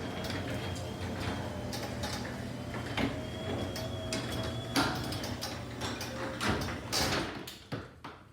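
Electric garage door opener running as a sectional garage door travels along its tracks: a steady motor hum with a thin high whine and many clicks and rattles. The run stops shortly before the end.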